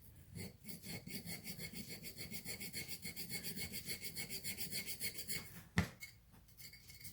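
Fast, even rubbing strokes, several a second, on the cured epoxy-putty patch of a cast-iron drill press vise. They stop about five seconds in, and a single knock follows.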